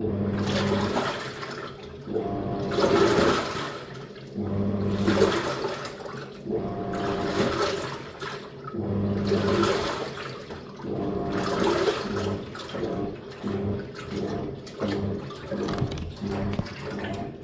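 Living & Co 5.5 kg top-loading washing machine agitating: the motor hums in pulses of about a second as the agitator swings back and forth, churning water and clothes. The pulses grow shorter and quicker over the last few seconds, at the end of the agitation just before the final spin.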